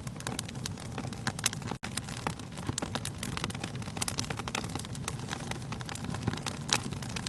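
Wood fire in a fireplace burning steadily with a low rumble, full of irregular sharp crackles and pops from the burning logs. The sound cuts out for a split second about two seconds in.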